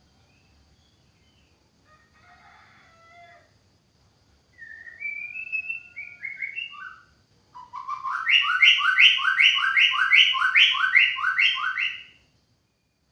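White-rumped shama singing: a few whistled, gliding notes, then a loud, fast run of about a dozen harsh repeated notes that stops suddenly.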